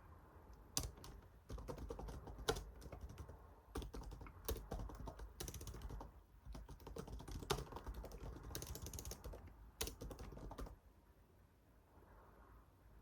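Typing on a computer keyboard: a run of irregular key clicks that stops about eleven seconds in.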